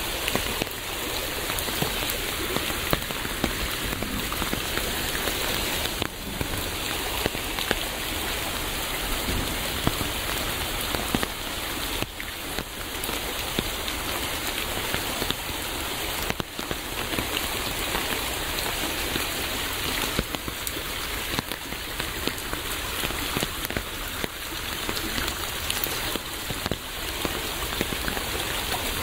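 Steady rain falling, an even hiss with many small drops tapping sharply on a surface.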